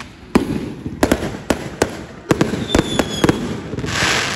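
Aerial fireworks exploding overhead in a rapid, irregular string of sharp bangs. A short high whistle comes a little under two-thirds of the way in, and a hissing rush near the end.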